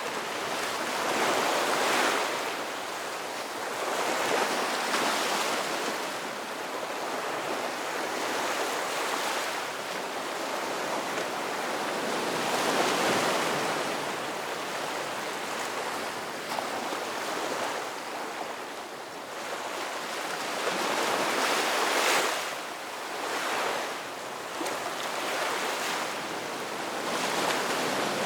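Ocean waves breaking and washing on a shore, a steady surf hiss that swells with each wave, strongest about 2, 5, 13 and 22 seconds in.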